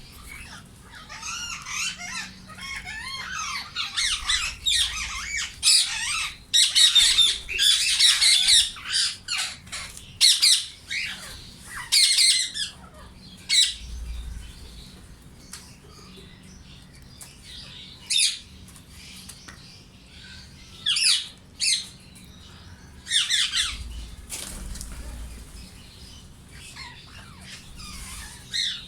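A flock of Indian ringneck parakeets screeching and squawking, a dense chorus of harsh calls in the first half thinning to single loud screeches later, with occasional wing flaps.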